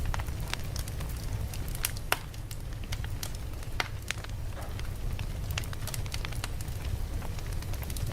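Campfire burning: irregular sharp crackles and pops over a steady low rumble, with louder pops about two and four seconds in.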